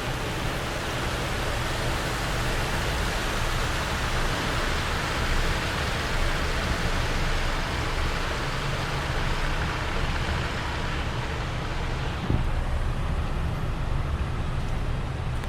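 A car driving through flash-flood water on the highway: a steady rushing hiss of water spraying against the car over the low rumble of the engine and tyres. After about twelve seconds the hiss eases, with a single thump.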